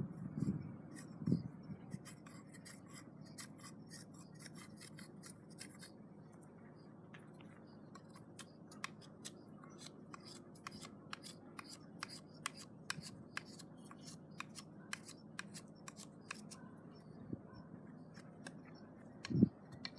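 Many short, quick cutting or snipping strokes of a hand blade, with a few dull knocks at the start and near the end.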